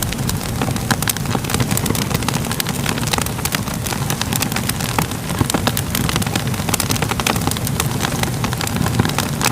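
Crackling fire ambience: a steady low rumble of burning with many sharp pops and crackles scattered throughout.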